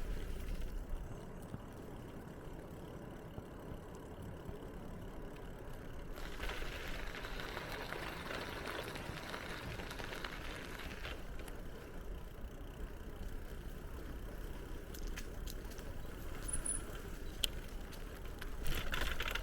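Bicycle on the move: a steady low rumble of rolling and wind on the microphone, with scattered light clicks and rattles. A louder hiss runs for about five seconds in the middle, and there is a brief burst near the end.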